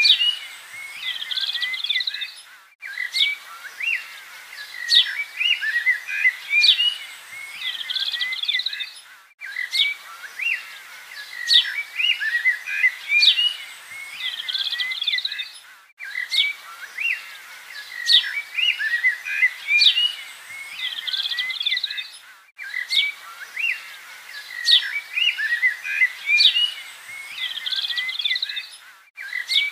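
Birdsong ambience on a loop: many small birds chirping and twittering, the same passage of about six and a half seconds repeating over and over, each repeat broken by a brief dropout.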